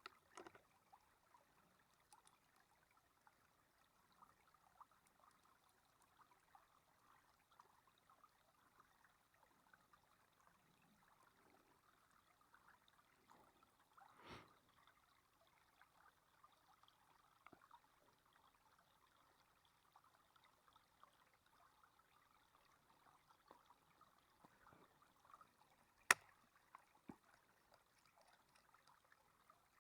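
Near silence: faint outdoor hiss with scattered soft clicks, a brief rustle about halfway through and one sharp click near the end.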